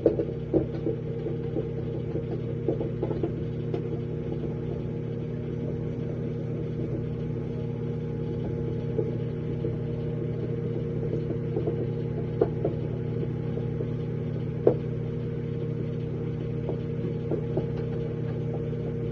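BLACK+DECKER 5-in-1 microwave oven running with a steady electrical hum, with a few sharp light clicks now and then.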